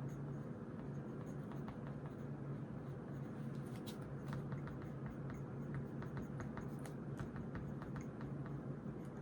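Ballpoint pen writing on notebook paper: a run of short, quick scratchy strokes, busiest in the middle, over a steady low room hum.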